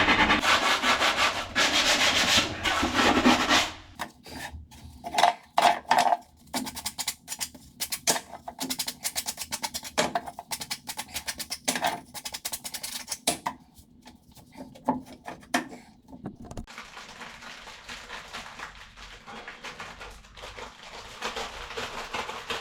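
Rubbing on wood for a few seconds, then a long run of irregular light taps and knocks, then softer, quieter scraping as the pieces of the boat's plywood floor structure are worked and glued in by hand.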